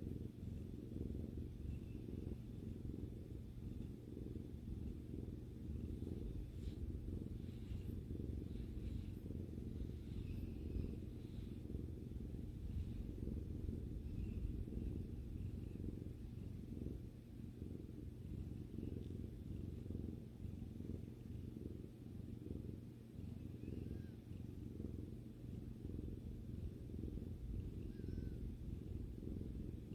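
Domestic cat purring steadily, a low continuous rumble.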